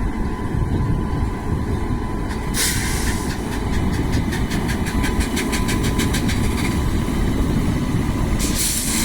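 Loaded goods train of coal hopper wagons rolling past with a steady low rumble. From about three seconds in, rapid rhythmic clicking of about four to five beats a second comes from the wheels, and there is a hiss near the end.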